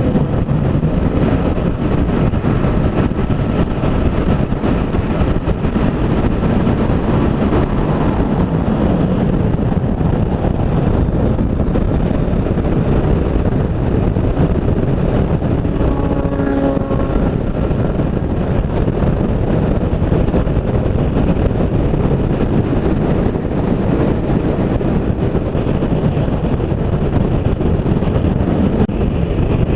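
Motorcycle running at cruising speed on a highway, a steady rush of engine, road and wind noise, with a brief pitched tone, like a passing vehicle's horn, about sixteen seconds in.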